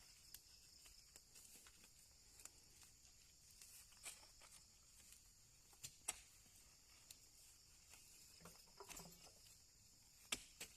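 Near silence: a faint steady high hiss with a few scattered light clicks and taps.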